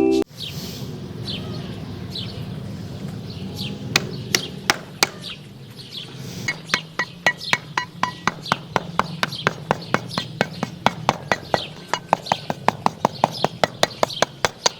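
Birds chirping over a low steady hum, with sharp taps that come singly at first and settle into a fast, even rhythm of about three to four a second from roughly six seconds in.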